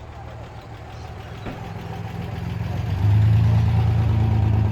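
A vehicle's engine running with a steady low rumble, drawing closer and growing louder, then loud and close from about three seconds in.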